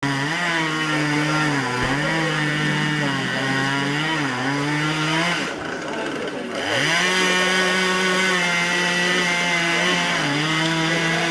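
Two-stroke chainsaw running at high revs while cutting wood, its pitch dipping briefly now and then. About halfway through it drops off for a second or so, then revs back up and holds steady.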